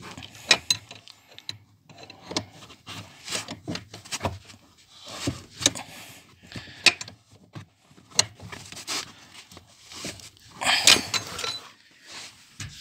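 Wrench clicking and scraping on the clamp bolt of a Hyundai ix35's steering shaft universal joint as it is tightened: irregular metallic clicks and knocks, with a longer, louder scrape near the end. The bolt keeps working loose and causes a knock in the steering.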